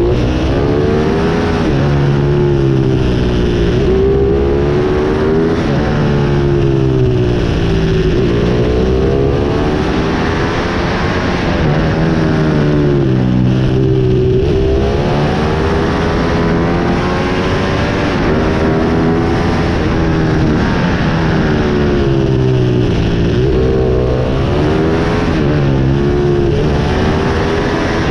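Pit bike's small single-cylinder engine revving hard and easing off again and again, its pitch rising and falling every second or two.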